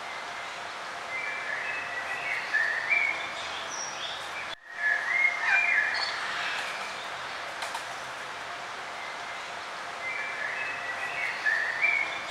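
Several birds chirping and singing in short phrases over a steady background hiss, with a brief sudden break in the sound about four and a half seconds in.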